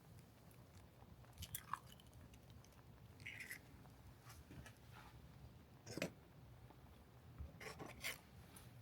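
Quiet eating sounds: sporadic chewing and biting with a few short crisp clicks over a low steady background.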